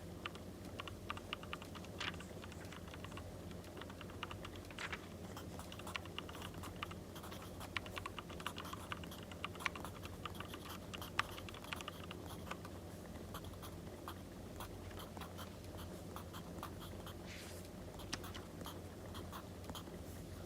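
Pen writing on paper, with irregular small scratches and taps that come thickest in the first half, over a steady crackling log-fire sound.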